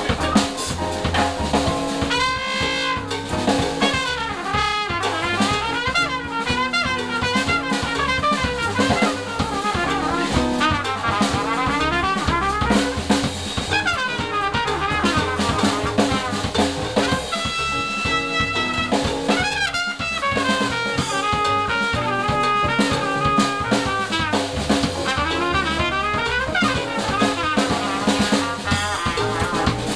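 Live jazz band playing: trumpet and other brass leading over a drum kit, with continuous wavering brass lines throughout.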